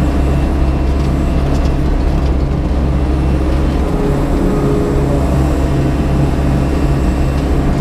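Crawler excavator's diesel engine running steadily while working, its note shifting slightly about halfway through.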